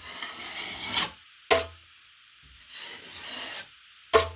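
A drywall knife scraping in two long strokes over wet joint compound and paper tape, squeezing out the extra mud from under the tape. A sharp clack follows each stroke.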